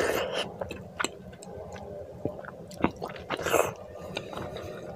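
Close-miked chewing of rice and egg curry eaten by hand: wet, sticky mouth sounds and small clicks, with louder squelches at the start and about three and a half seconds in.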